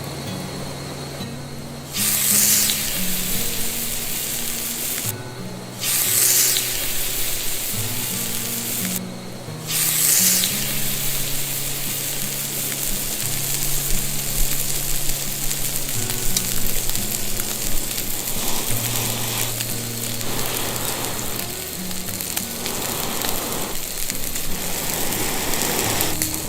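Steak frying in a hot pan: a steady, loud sizzle that flares up sharply three times, about 2, 6 and 10 seconds in. Background music plays underneath.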